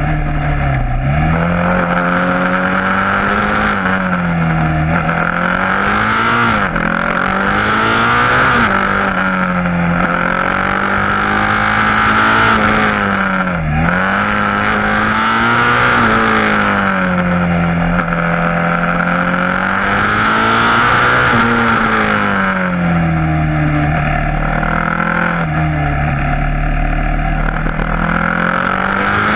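KTM Duke 690's single-cylinder engine through an Akrapovic exhaust, revving up and dropping back again and again as the bike accelerates and slows, with sharp drops in revs at gear changes, over a steady rushing noise.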